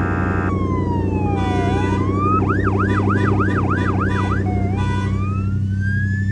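Emergency vehicle siren sound effect: a slow falling wail, then a fast yelp warbling about three times a second, then a slow rising wail, over a steady low drone. Short buzzy horn-like blasts come in about one and a half and five seconds in.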